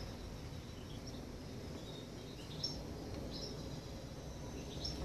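Faint, scattered short high chirps from small birds over a steady low outdoor background noise.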